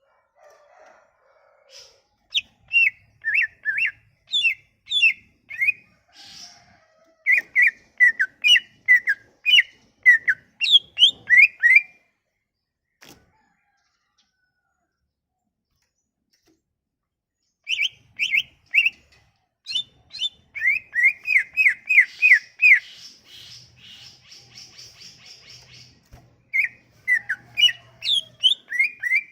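Cucak ijo (leafbird) singing in quick runs of sharp, down-slurred whistled notes, with a pause of several seconds in the middle and a buzzy chattering passage about two-thirds of the way in.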